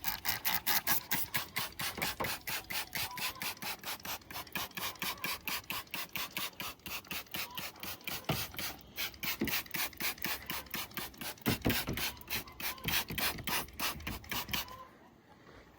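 A hand trigger spray bottle being pumped rapidly, about four squirts a second, spraying the engine bay; it stops about a second before the end.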